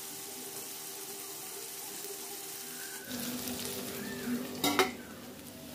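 Eel masala frying in oil in an aluminium kadai, a steady low sizzle. About three seconds in the sound thickens, and near the end a metal lid clinks sharply against the pan twice in quick succession.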